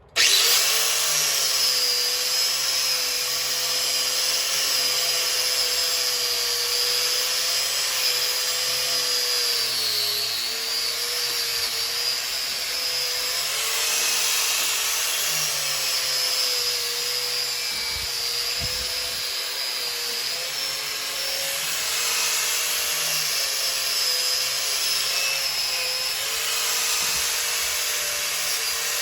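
Handheld electric power tool switching on and running steadily, cleaning rust off cast-metal baler knotter parts; its motor pitch sags briefly about ten seconds in as it bears down on the metal, with smaller dips later.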